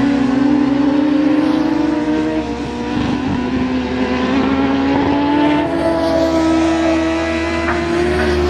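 A motor vehicle engine running steadily under way. Its pitch sags briefly about three seconds in, then climbs gradually.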